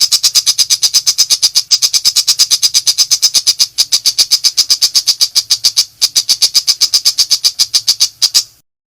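Pentet macan shrike giving its rapid 'nembak' call: a loud, fast series of sharp high notes, about eight a second, with a few brief breaks, stopping abruptly near the end.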